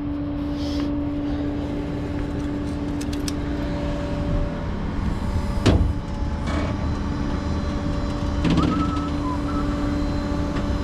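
Tow truck running down the road: a steady engine hum and road rumble, with one sharp knock a little past halfway.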